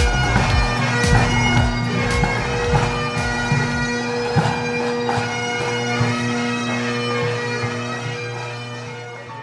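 Bagpipes playing a tune over their steady drones, fading down near the end.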